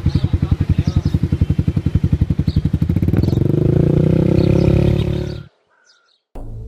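Small motorcycle engine running with a fast, even putter, then rising in pitch and getting louder as it accelerates away; it cuts off suddenly about five and a half seconds in. After a short silence, background music starts near the end.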